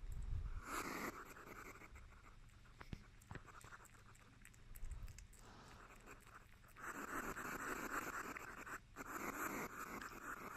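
African white-bellied hedgehog eating worms: small wet clicks and crunching from its chewing, with a denser crackling stretch from about seven seconds in.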